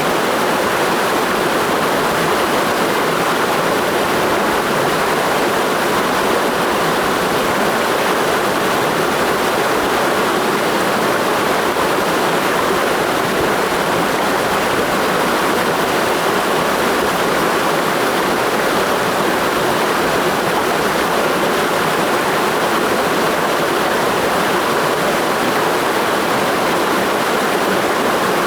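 Mountain stream rushing over rocks, a steady, even roar of running water.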